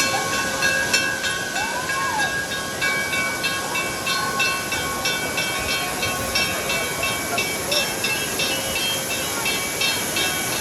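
Waterfall water rushing steadily, with steady high-pitched tones and a fast pulsing over it, and one short call about two seconds in.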